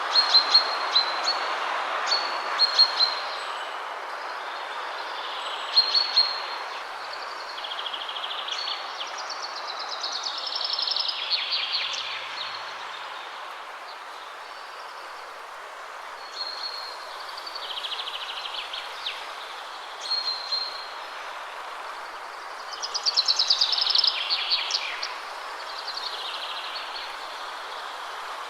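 Wind blowing steadily through trees, with songbirds singing over it: repeated short high chirps and rapid trills that fall in pitch, the loudest trills about a third of the way in and again near the end.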